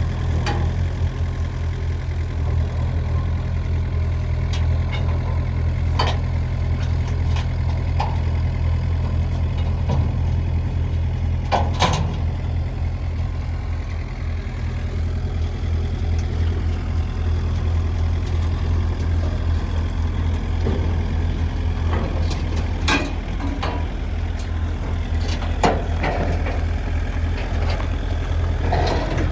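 Heavy engine idling steadily, with a few sharp clanks and knocks.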